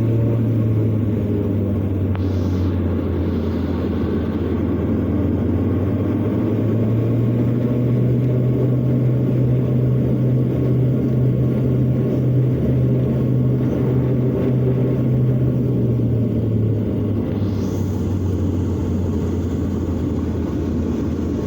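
Propeller airliner's engines heard from inside the cabin: a steady low drone while the plane moves along the ground before takeoff. Its pitch rises a little about seven seconds in and falls back after about seventeen.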